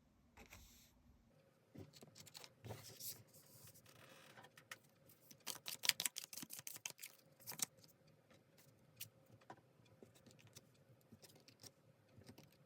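Tarot cards being handled on a table: soft rustling and irregular sharp card clicks, with a quick flurry of clicks about six seconds in.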